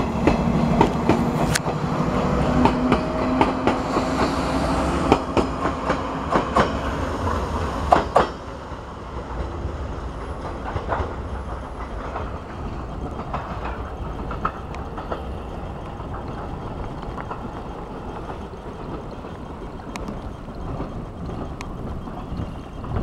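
Electric train pulling out of a station: a low motor hum, with the wheels clicking over rail joints. About eight seconds in, the sound drops off suddenly as the last carriage clears, leaving a quieter steady rumble as the train draws away.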